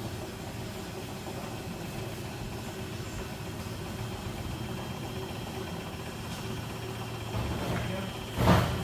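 Beko washing machine's motor humming steadily as the drum turns, trying to redistribute a load unbalanced by a towel before its final spin. A single loud thump comes just before the end.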